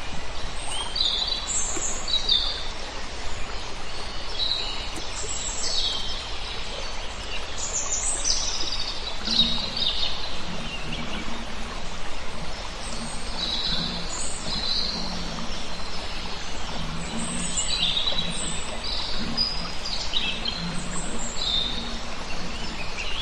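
Small birds chirping: many short, high chirps and tweets following one another irregularly over a steady background hiss.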